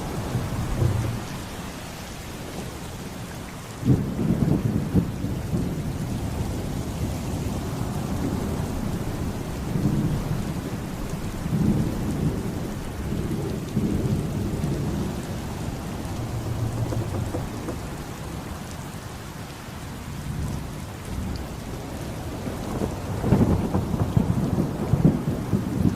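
Steady heavy rain with rolling thunder. A sudden loud thunderclap breaks in about four seconds in, and a long, loud rumble of thunder comes near the end.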